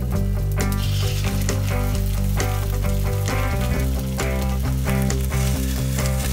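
Flour-dredged chicken cutlets sizzling steadily as they fry in hot fat in a stainless steel frying pan.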